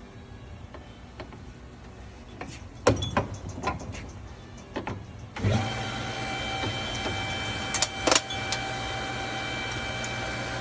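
A few clicks and knocks of handling tools and metal, then about five seconds in a small electric motor starts and runs steadily, with a couple of sharp knocks over it.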